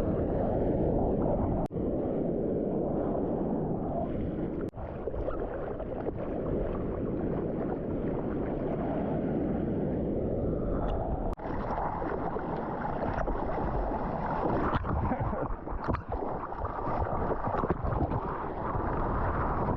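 Dull, rushing wind and water noise buffeting the microphone at the surf, with brief dropouts and a change to a brighter hiss partway through.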